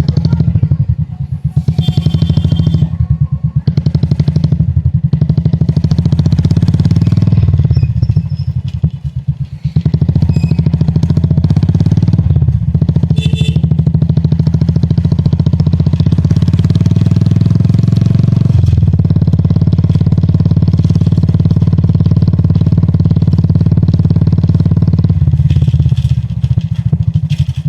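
2019 Royal Enfield Classic 350's single-cylinder engine and exhaust running on the move with a fast, even low beat. It drops in level for a couple of seconds about eight seconds in, then runs steadily again, and eases once more near the end.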